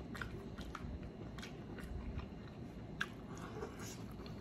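Close-up chewing of crispy breaded deep-fried seafood: soft, irregular crunches and wet mouth clicks, with one sharper crunch about three seconds in.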